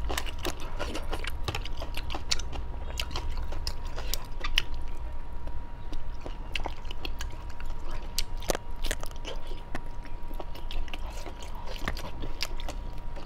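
Close-miked chewing and biting as a person eats sauce-coated fried skewers, with many short wet mouth clicks and smacks throughout.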